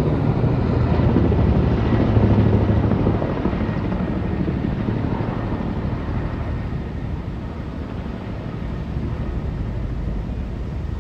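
Firefighting helicopter flying, its rotor chopping steadily, loudest in the first three seconds and then slowly fading as it draws away.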